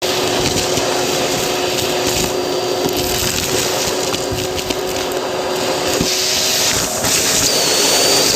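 Bissell vacuum cleaner running with an inverted crevice tool: a steady motor whine over rushing air, with many small clicks and crackles of debris drawn through the tool. Near the end a thin high whistle rises slightly.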